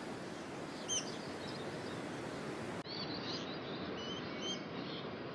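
Forest ambience: a steady hiss of background noise with scattered bird calls, one short sharp call about a second in and several brief whistled calls a little after the middle. The background changes abruptly just under three seconds in.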